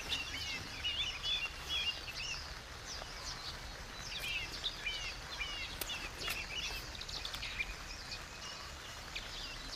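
Steady hiss of heavy rain, with small birds chirping repeatedly over it in short, quick calls.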